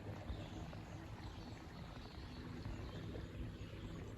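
Faint, steady outdoor ambience beside a flowing river: an even hiss of running water with uneven low rumble.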